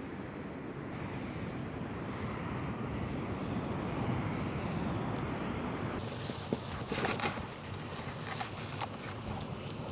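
Steady low outdoor rumble with wind in it. About six seconds in it changes abruptly to light rustling, scraping and clicking of things being handled.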